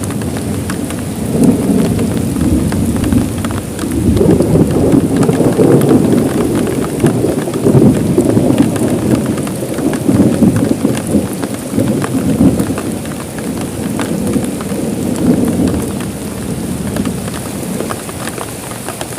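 Heavy rain falling steadily with many close drops, under a low rolling rumble of thunder that builds a second or two in and dies away near the end.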